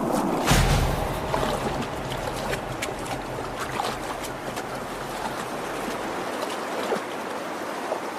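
Creek water rushing and splashing, with a heavier splash about half a second in and many small splashes after it.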